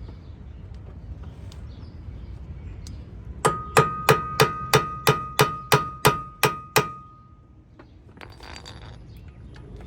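Hammer blows on a Honda Civic's front brake rotor, knocking it free of the hub in place of a rotor puller: about eleven quick metal strikes, roughly three a second, each ringing, with the ring hanging on briefly after the last.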